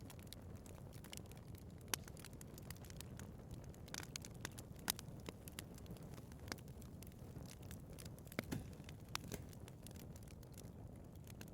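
Wood fire burning in a fireplace: a steady low rumble of flames with irregular crackles and sharp pops, the loudest about two and five seconds in.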